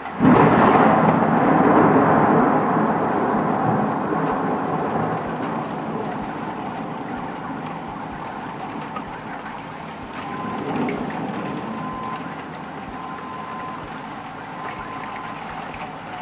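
A nearby thunderclap bursts in suddenly just after the start, then rumbles and fades over about six seconds, over steady heavy rain.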